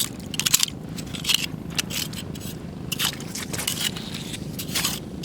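Irregular crunching and scraping against rocks and stones, a handful of short crunches at uneven intervals, over a steady low background hiss.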